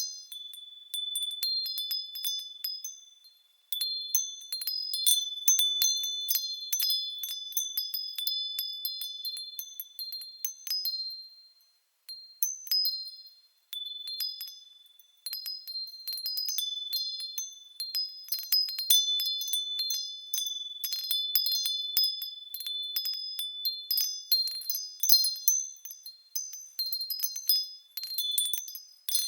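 Japanese fūrin wind chime rung irregularly by the wind: high, clear ringing tones struck in uneven clusters that fade away between strikes, with a few brief lulls.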